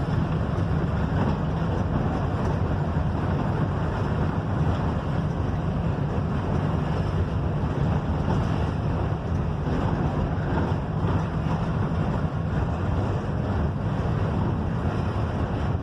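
Steady cabin noise of a Mercedes-Benz OF-1721 BlueTec 5 bus under way: a low engine drone mixed with road and wind rumble, with no changes in pace.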